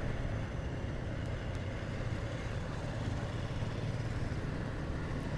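Motorcycle riding steadily down a road: the engine runs at an even pace under road and wind noise.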